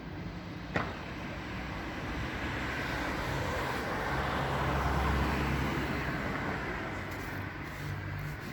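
Street traffic: a vehicle passes, its engine and tyre noise building to a peak about halfway through and then fading. A sharp click sounds just under a second in.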